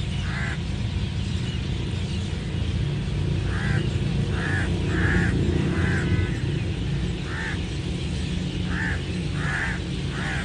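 A large flock of birds calling at their roost: short calls, often several in quick succession, over a steady low rumble.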